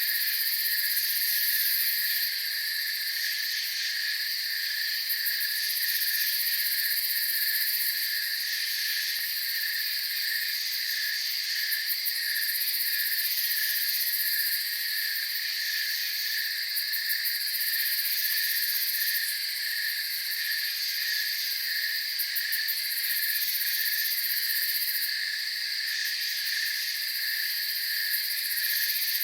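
Night chorus of crickets and other insects: a fast pulsing trill, a steady higher buzz, and very high trills that start and stop every few seconds, all layered at an even level.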